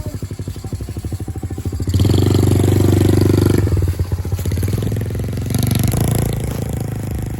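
Honda CRF50 mini dirt bike's small four-stroke single-cylinder engine running, pulsing at low speed, then throttled up about two seconds in and held for a second or so before easing off, with another brief rise near six seconds.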